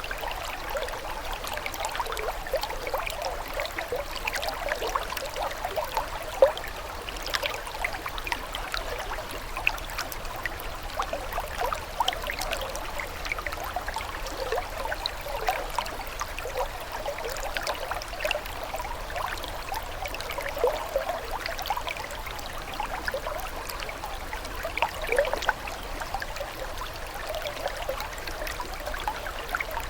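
Running water trickling and gurgling steadily, a continuous stream of small bubbling plops.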